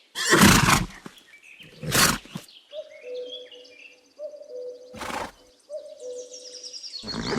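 Small birds chirping and tweeting, with a steady, repeated tone underneath. Four short, loud rushes of noise come about two to three seconds apart and stand out above the birds.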